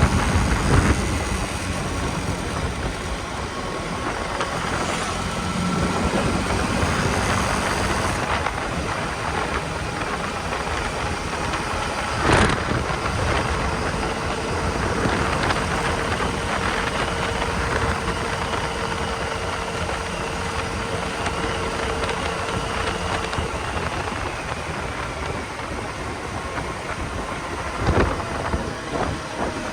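KTM Duke 250 single-cylinder motorcycle running on the road, heavily mixed with wind rush on the microphone. There are two brief sharp knocks, one about a third of the way in and one near the end.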